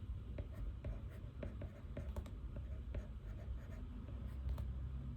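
Pen writing on paper: irregular short scratching strokes and light taps, over a steady low hum.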